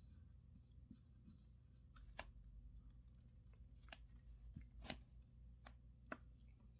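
Faint, sharp clicks of small tools and parts handled on a quartz watch during reassembly, about five or six of them from about two seconds in, over a low steady hum.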